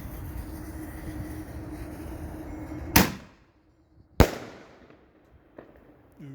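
Two sharp, loud firework bangs about a second apart from RGS 'Baby Widows' shells going off, each trailing off briefly, over a steady background hum.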